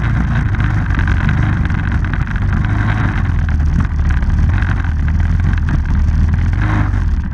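Off-road vehicle engine running loud and steady at a fairly constant speed, close to the microphone.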